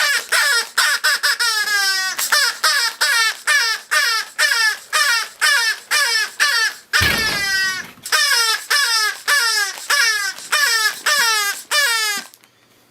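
A loud, rapid series of falling squawking cries, about two to three a second, broken by a short noisy burst about seven seconds in and stopping shortly before the end.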